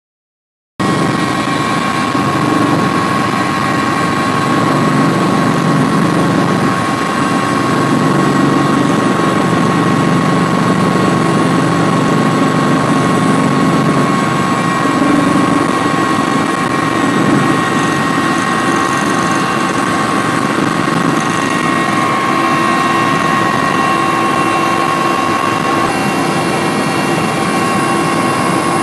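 Steady aircraft engine drone, with a constant whine over a dense rumble, starting about a second in.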